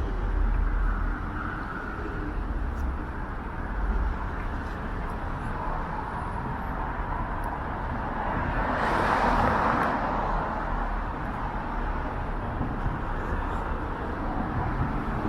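Road traffic on a busy city street: cars driving past in a steady wash of tyre and engine noise, with one vehicle passing close and loud about nine seconds in.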